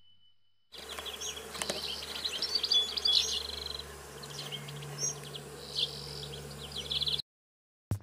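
Small songbird chirping in quick twittering trills over a steady low hum, starting about a second in and cutting off suddenly near the end.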